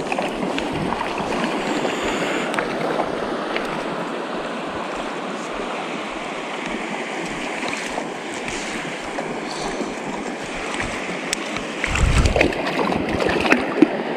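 Creek water running steadily over rocks, an even rushing. About twelve seconds in there is a short burst of low rumbling.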